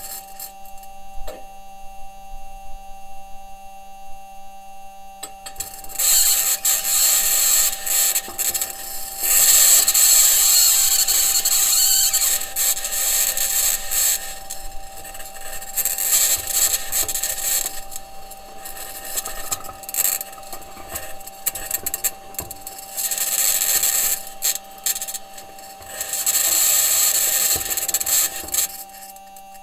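Perseverance Mars rover driving: wheels and suspension grinding and rattling over the ground, with bouts of loud, high-pitched scraping that come and go every few seconds over a steady electrical hum.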